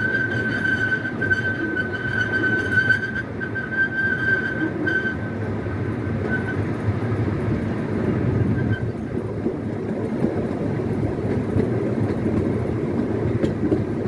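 Scenic railway train running along its track, heard from on board: a steady rumble from the wheels and running gear. A high, steady squealing tone rides over it, then fades away about six seconds in.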